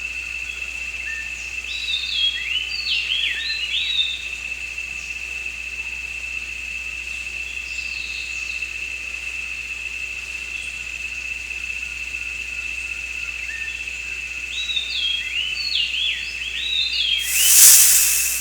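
A steady, high insect drone runs throughout. Over it a bird sings a short phrase of whistled, sliding notes, once about two seconds in and again near the end. Just before the end there is a loud, brief whoosh of noise lasting about a second.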